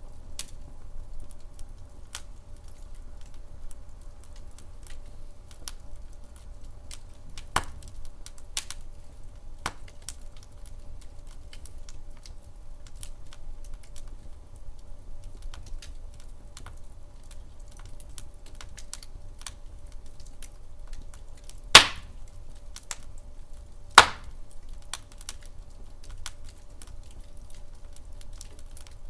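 Wood fire crackling in a fireplace: scattered small clicks and snaps over a steady low rumble, with two loud pops about two seconds apart near the end.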